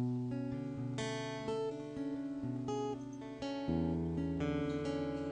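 Solo acoustic guitar playing an instrumental. It opens with a chord and continues with picked and strummed notes ringing over bass notes that change every second or so.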